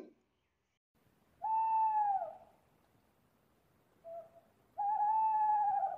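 An owl hooting: a hoot of about a second that falls away at its end, then a short faint note, then a longer, level hoot.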